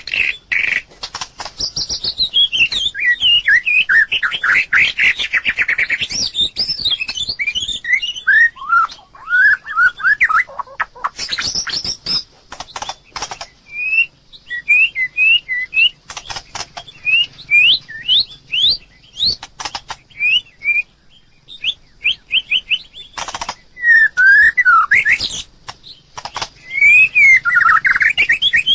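White-rumped shama singing: a long run of varied whistled phrases that sweep up and down in pitch, broken by frequent sharp clicks.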